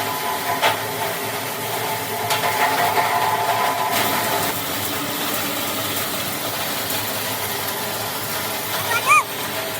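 Steady factory machinery noise with a hum during the first half, a few light knocks, and a short high squeak near the end.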